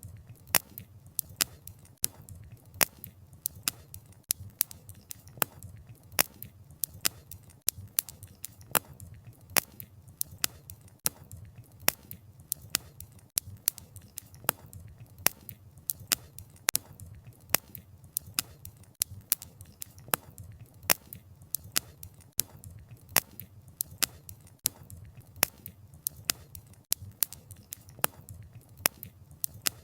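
Wood campfire crackling: irregular sharp snaps and pops of burning wood, several a second, over a low steady rumble of the flames.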